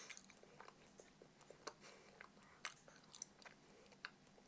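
Faint chewing of a caramel-filled chocolate candy egg: soft, scattered mouth clicks.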